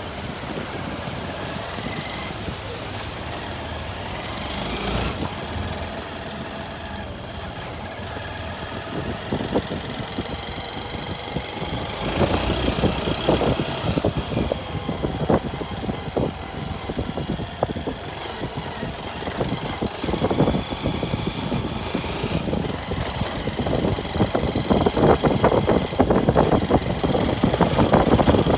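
A vehicle's engine running while under way. Growing clatter of knocks and jolts from about twelve seconds in, loudest near the end, as the vehicle travels over rough ground.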